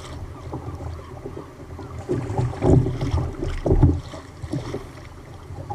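Choppy sea water sloshing and slapping against a fishing kayak, with wind on the microphone and two louder thumps about two and a half and four seconds in.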